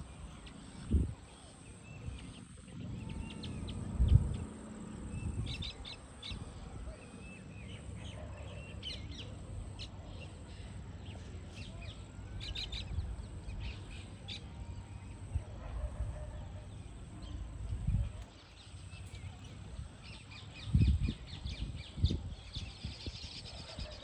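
Baya weavers chirping around their hanging woven nests: scattered short, high chirps that thicken into a denser chatter near the end. A few brief low thumps are the loudest sounds.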